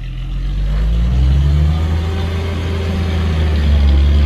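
Heavy diesel engine revving up, growing louder with its pitch rising over the first second or so, then running steadily at higher revs.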